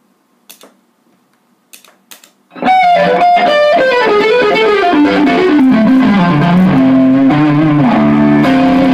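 A few faint clicks, then about two and a half seconds in, loud distorted electric guitar music starts, its lead line stepping downward in pitch.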